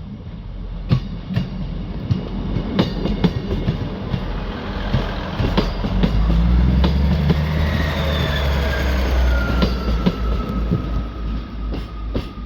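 Class 158 diesel multiple unit moving past close by: wheels clicking over the rail joints, the diesel engine's low rumble growing loud about halfway through, and a whine that slides down in pitch near the end as it goes by.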